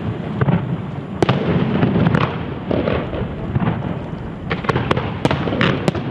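Aerial fireworks display: a steady rumble of shell bursts with sharp cracks on top, one loud crack about a second in and several in quick succession near the end.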